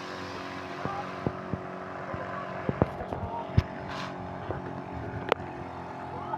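Outboard motor of an inflatable rubber boat running at a steady pitch, with scattered sharp clicks and knocks over it.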